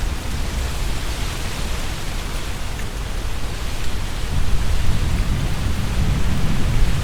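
Strong wind gusting through trees, leaves rustling in a steady hiss, with a low rumble of wind buffeting the binaural microphones that grows stronger about halfway through.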